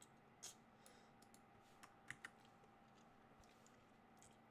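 Faint computer keyboard keystrokes, a few separate clicks with a quick cluster about two seconds in.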